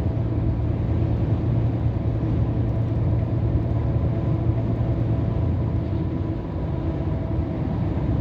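Steady drone of a Scania R500 lorry's V8 diesel engine at cruising speed, with road and tyre noise, heard from inside the cab.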